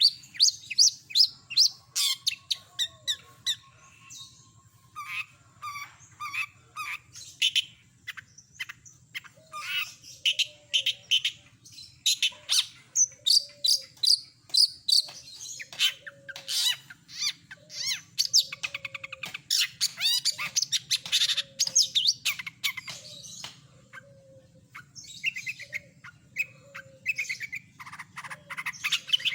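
Long-tailed shrike (cendet) singing a rapid, varied song of quick repeated chirps and trills, broken by short pauses.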